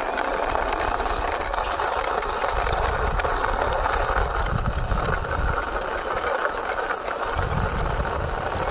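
A hand-driven toy vehicle's wheels rolling along a wall, a steady rushing noise. About six seconds in, a bird gives a quick run of about ten rising chirps.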